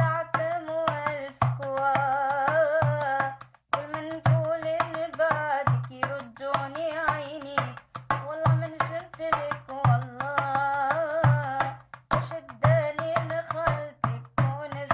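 A woman singing a raï song with a wavering, ornamented melody over a steady drum beat and percussion accompaniment.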